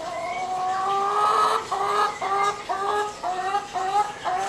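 Domestic hen calling: one long drawn-out, slightly rising note, then a run of short repeated clucks about two a second.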